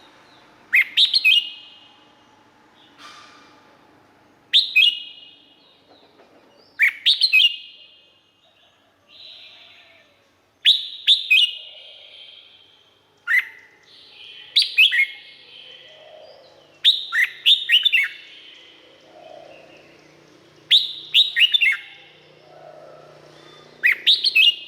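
Red-whiskered bulbul singing: short, loud phrases of quick falling whistled notes, repeated about every two to three seconds, around ten phrases in all.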